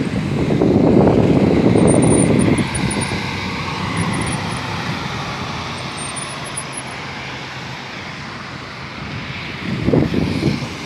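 Wind rushing over the microphone while riding along a road, with vehicle and road noise beneath. The buffeting is heaviest for the first two or three seconds, then settles to a steady rush.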